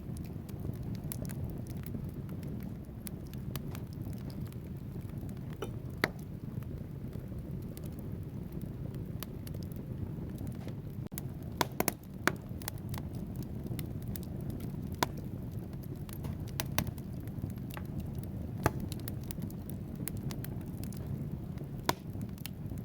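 Wood fire burning in a fireplace: a steady low rumble of flames with frequent crackles and sharp pops from the logs, a few much louder, including a quick cluster of pops about twelve seconds in.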